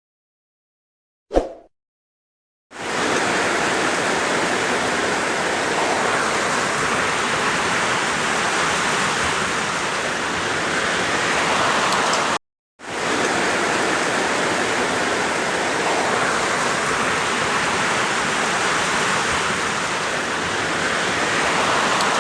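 Heavy rain falling steadily, a dense even hiss, in two stretches broken by a brief cut about halfway. A single short click comes about a second and a half in, before the rain starts.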